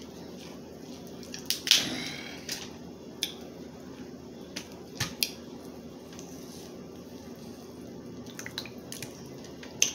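Crab legs being cracked and eaten close to the microphone: scattered sharp clicks and cracks of shell, with a longer wet, smacking noise about two seconds in.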